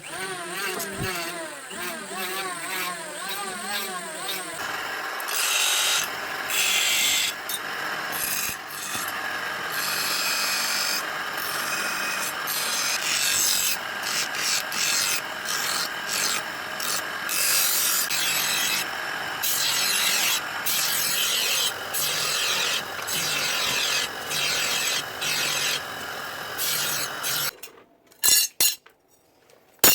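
Steel of a sickle blade being worked with an abrasive tool: a continuous scraping that surges in rhythmic strokes, preceded for the first few seconds by a wavering whine, and stopping abruptly near the end.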